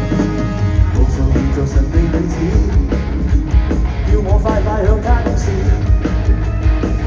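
Rock band playing live with electric guitars; the drums and bass settle into a steady beat about a second in, and a wavering lead melody enters around the middle.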